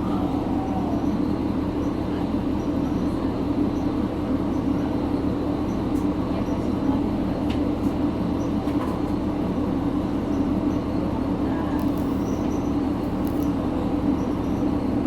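Diesel railcar running steadily, heard from inside the passenger cabin: an even engine drone with rail and body noise and no sudden events.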